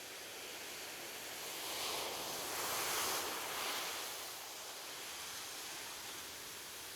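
Gentle ocean waves washing onto a beach: one wave swells and breaks about two seconds in, then settles into a steady soft hiss of surf.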